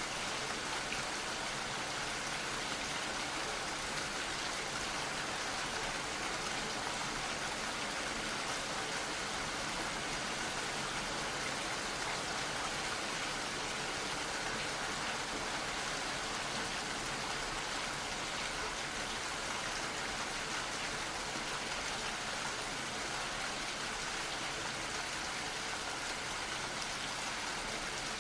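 Gentle rain falling steadily, an even hiss with no breaks.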